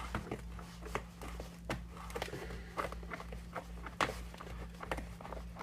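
Hands handling cardboard and plastic packaging: irregular small clicks, taps and rustles, over a steady low hum.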